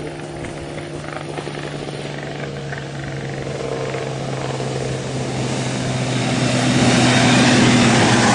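Vintage racing motorcycle engines running hard on a hill climb, a steady drone that grows louder as the bikes approach and is loudest near the end.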